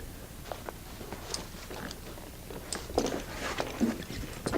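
Light handling sounds: scattered clicks and rustles of plastic clips and straps as an inflatable kayak's seat is unclipped and removed.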